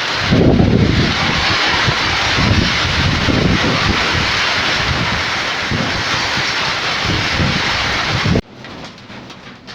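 Heavy rain pouring down with strong, gusting wind buffeting the microphone in low rumbles. It cuts off sharply about eight seconds in, leaving a much quieter background.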